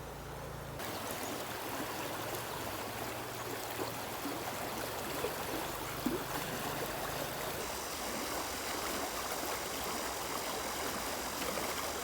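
Water flowing and trickling steadily, with scattered small splashes and drips.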